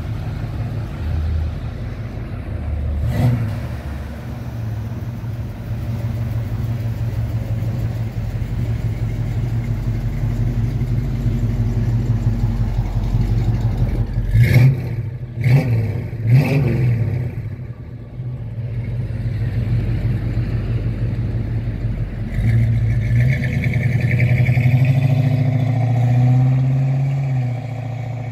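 1970 Buick GS455's 455 cubic-inch V8 running at idle, blipped once early and revved three times in quick succession near the middle. Later it pulls away, the engine note climbing louder under acceleration before easing off near the end.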